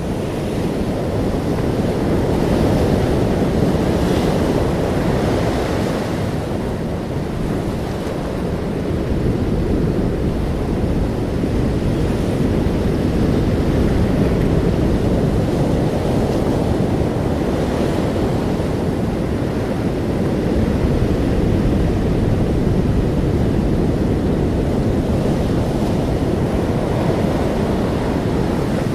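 Ocean surf breaking and washing on a beach: a continuous rushing that swells and eases every several seconds.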